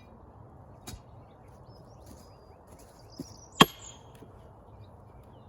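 A sledgehammer striking a steel wedge driven into a big log to split it: one loud, sharp ringing clang of metal on metal a little past halfway, after a lighter tap about a second in.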